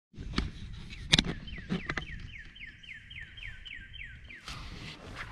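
A bird singing a quick run of about a dozen downslurred whistled notes, about four a second for some three seconds. A few sharp knocks come before it, the loudest about a second in.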